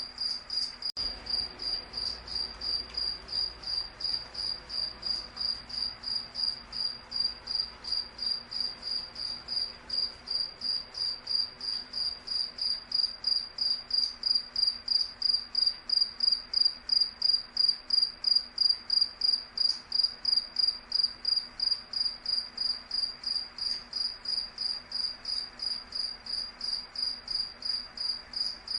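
A cricket chirping in a steady, even rhythm of short, high-pitched chirps, a little louder in the middle stretch.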